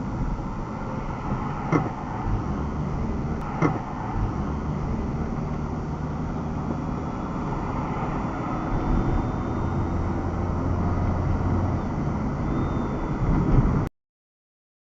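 Car driving, with steady engine and road noise and two brief knocks in the first few seconds; the sound cuts off suddenly near the end.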